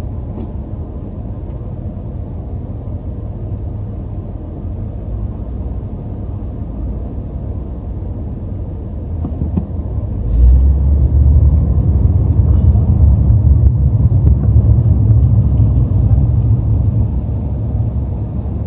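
BMW M5 on the move: a steady low engine and road rumble that grows clearly louder about ten seconds in, as if under harder acceleration, then eases slightly near the end.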